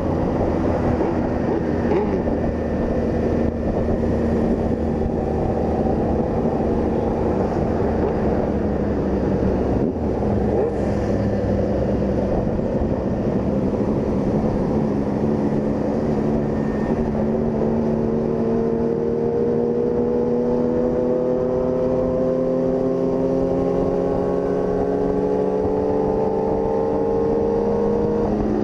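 Honda CG 160 Fan's single-cylinder engine running at road speed. About two-thirds of the way through its note becomes clearer and climbs slowly and steadily in pitch as the bike accelerates.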